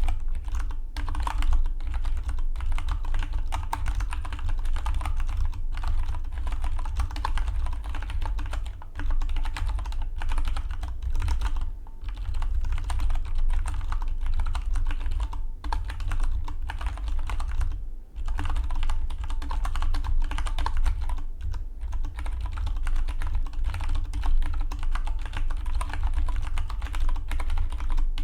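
Fast, continuous typing on a Dygma Defy split mechanical keyboard: a dense stream of key clicks with a few brief pauses, the longest about 18 seconds in.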